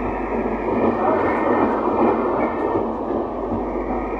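Passenger train running along the track, a steady noise of wheels and coach with no single loud event.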